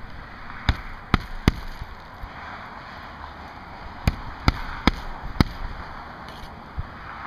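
Hammer blows driving roofing nails into asphalt shingles: three quick strikes about a second in, then four more at about two a second in the middle.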